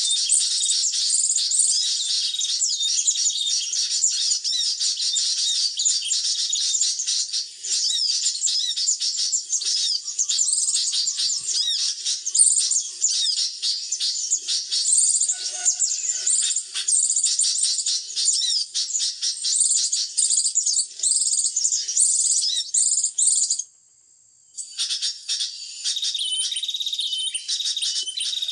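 Dense, unbroken high chirping and twittering of small songbirds, a sunbird lure call used to draw birds to glue sticks. It cuts out suddenly for about a second near the end, then starts again.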